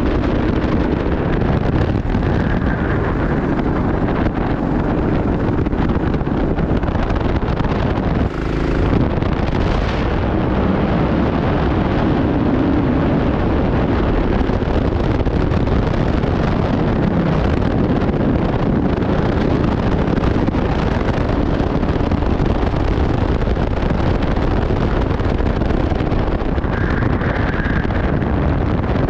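Racing kart engine running hard on track, with wind buffeting the microphone.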